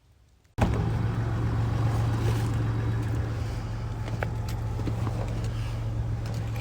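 Ford F-150's 3.0 Power Stroke V6 turbodiesel running steadily with a low, even hum, cutting in abruptly about half a second in.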